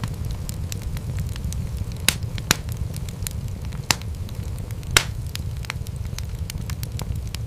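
Wood fire crackling in a fireplace, with many small snaps over a steady low rumble of flame. Four louder pops come at about two, two and a half, four and five seconds in.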